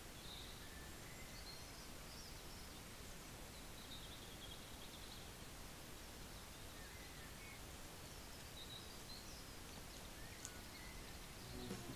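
Quiet forest ambience: faint, scattered high bird chirps, a few at a time, over a steady low hiss.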